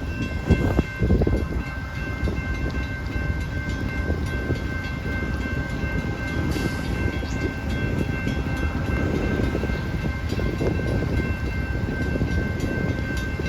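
Amtrak GE P42 Genesis diesel locomotive running while stopped, a steady low rumble with a steady high whine over it.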